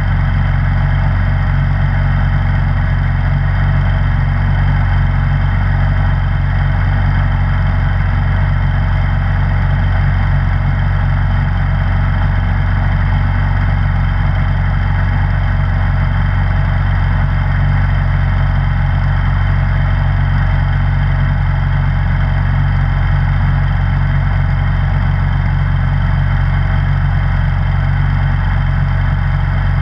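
Snowblower engine running at a steady, unchanging speed with a low, even hum.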